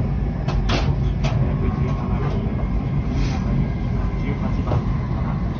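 Shinkansen bullet train running at speed, heard from inside the passenger cabin as a steady low rumble with a faint steady whine. There are a few sharp clicks about half a second to a second and a half in.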